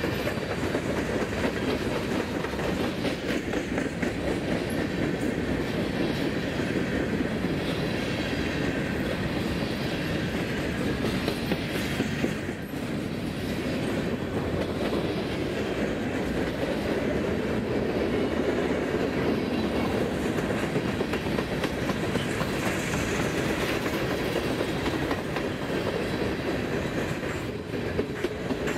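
Freight train cars rolling steadily past at track level, first lumber-loaded flatcars and then covered hoppers: a continuous rumble and rattle of wheels on rail.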